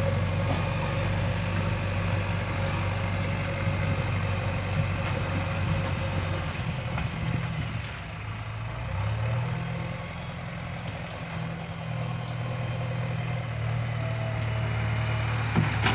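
Heavy diesel engine of earthmoving machinery running steadily, dipping in speed about eight seconds in and revving back up a second or so later.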